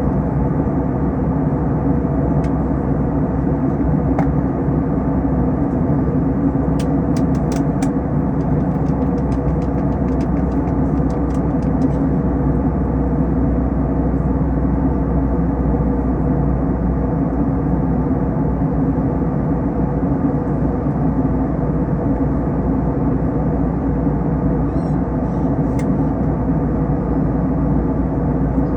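Steady cabin drone of an Airbus A321 airliner in flight, a mix of jet engine hum and airflow noise. A few faint clicks come about a quarter of the way in.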